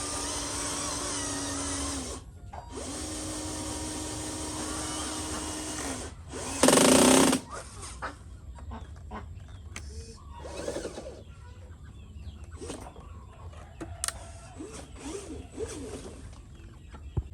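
Whine of a small electric motor, as in a radio-controlled model, running steadily, stopping about two seconds in, starting again and stopping about six seconds in. A loud burst of noise under a second long follows about seven seconds in, then quieter scattered clicks and knocks.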